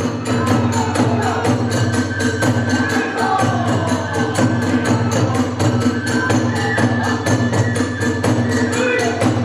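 Hiroshima kagura ensemble music: drum and small hand cymbals keep a fast, even beat of about four strikes a second, with a held, sliding flute line above.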